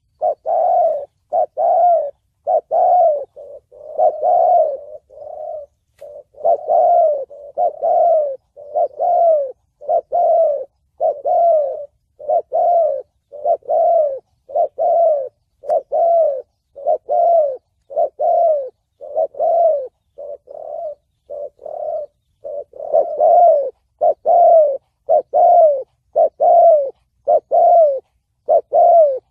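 Spotted dove cooing in the 'thổ bầu' voice that bird trappers use as a lure call: a long run of short coo notes, about one and a half a second, each falling slightly in pitch.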